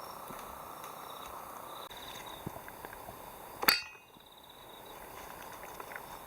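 A single sharp knock with a short ring, a little past the middle, over a steady background hiss.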